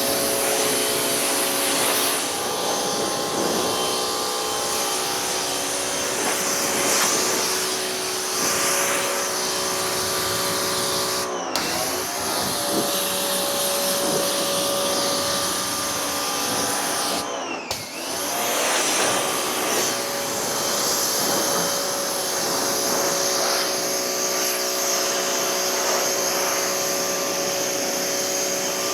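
Pressure washer running: a steady motor whine under the hiss of the water spray. Twice, near the middle, the spray cuts off for a moment and the motor note dips and picks up again.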